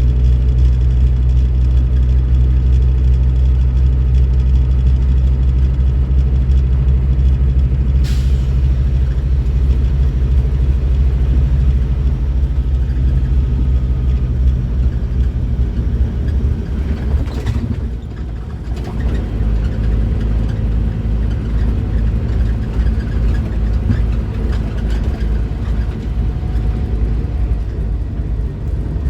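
Scania K310IB bus's five-cylinder diesel engine running under way, a steady low drone. About 18 s in the engine note drops and gets quieter, then carries on less evenly; short sharp clicks come about 8 s and 17 s in.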